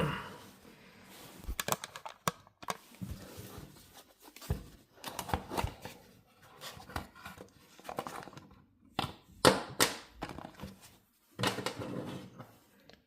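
Handling noise from unboxing a balisong knife package: a sharp thump, then irregular clicks, knocks and short rustles of packaging and parts being handled.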